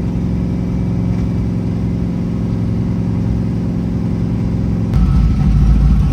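Car engine running steadily while cruising, heard from inside the cabin. About five seconds in it gets louder and rougher, with a deep rumble.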